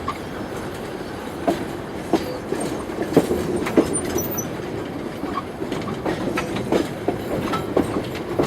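Passenger train carriage running along the track: a steady rumble with irregular knocks and rattling clicks from the wheels and rolling stock.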